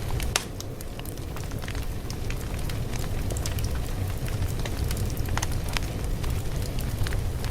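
Wood fire crackling: a steady low rumble of flames with irregular sharp pops and snaps, the loudest of them about half a second in.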